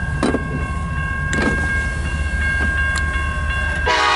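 Diesel locomotive air horn starting to blow near the end, loud and chord-like, over a steady low rumble. A few sharp clicks come earlier.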